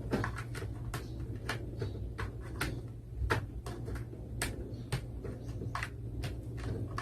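Notebook cooling stand being handled and connected: irregular sharp clicks and taps of plastic over a steady low hum from its fans running.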